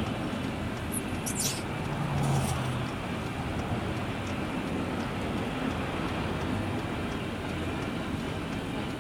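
Steady vehicle rumble heard from inside a car while a long freight train of flat cars goes by, with a few faint clicks.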